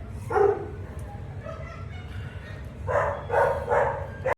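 Shelter dogs barking in the kennels: one bark about half a second in, then a quick run of barks near the end.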